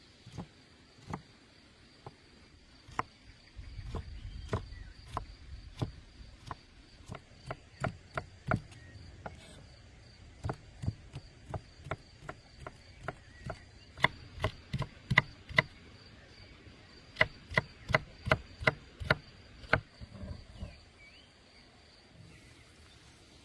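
Knife chopping on a wooden cutting board: a series of sharp, quick knocks, scattered at first and then in fast runs of two or three a second, loudest in the second half. A faint steady high insect trill runs underneath.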